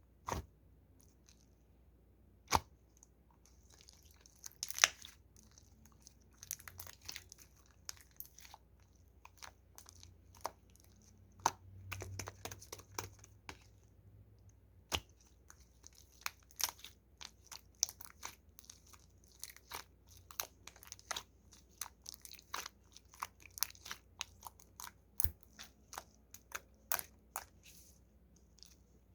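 Clear slime being pressed and worked by hand, giving irregular sharp clicks and pops. They come now and then at first and grow dense, several a second, from about halfway through.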